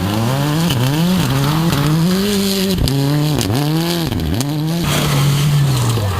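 Rally car engine revving hard, its pitch climbing and dropping again and again as the driver accelerates and lifts through gears and corners. The note holds steady for a moment and falls away near the end.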